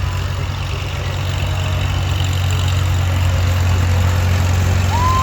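Tractor engine running steadily with an even low firing pulse. A single clear steady tone starts near the end.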